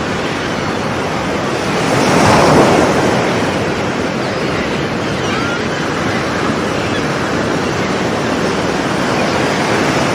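Sea waves breaking against rocks: one wave swells and crashes to a peak about two and a half seconds in, then a steady wash of surf.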